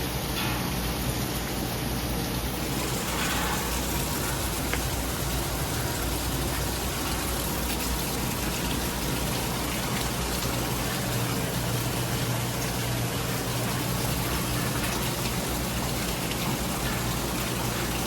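Heavy rain pouring steadily, a dense even hiss with scattered drop ticks and no thunder.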